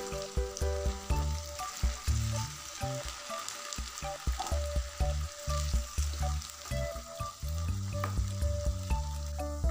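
Potato cubes deep-frying in hot oil with a steady sizzle, while a wire skimmer stirs and scoops them out with scattered scrapes and clicks. Background music plays underneath.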